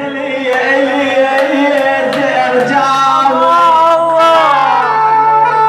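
Iraqi song: a male voice singing a long, ornamented line over a steady instrumental drone, giving way to a held instrumental note near the end.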